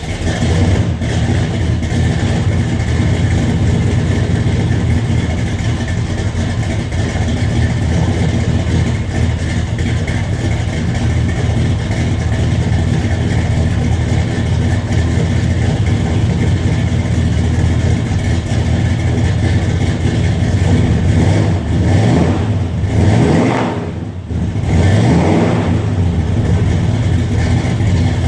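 Vehicle engine running steadily through newly fitted Jegs chambered mufflers, just after being started. It is revved up and back down twice near the end.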